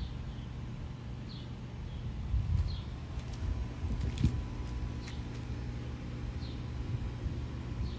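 Outdoor ambience: a steady low rumble with a small bird chirping now and then, short falling chirps about a second apart, and a few faint clicks.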